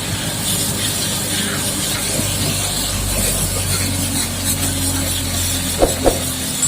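Water spraying from a booster-pump pressure washer as a steady hiss over a steady low engine or pump drone. Two sharp knocks come near the end.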